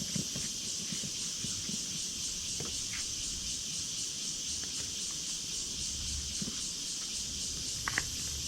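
Steady high-pitched chorus of forest insects with a faint even pulsing, and a few footsteps on the trail, one about three seconds in and a couple near the end.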